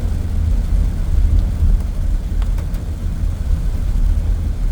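A car driving through a flooded street, heard from inside the cabin as a steady low rumble of engine and road.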